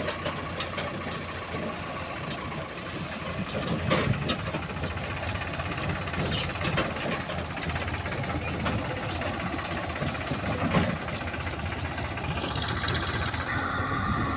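Diesel engine of heavy earth-moving machinery running steadily, with a few sharp knocks and a rising whine near the end.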